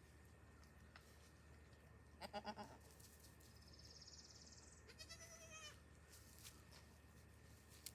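Goats bleating: a short, trembling bleat about two seconds in, then a higher-pitched bleat about five seconds in. A thin, rising high whistle falls between them.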